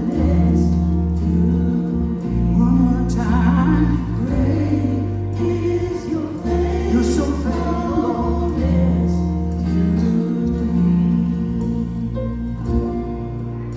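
Gospel choir singing with a live church band: long held bass notes under the voices and regular cymbal-like strokes keeping the beat.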